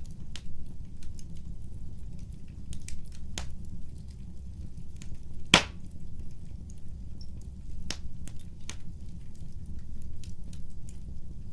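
Wood fire burning with a low steady rumble and scattered crackles and pops, one sharp crack louder than the rest about halfway through.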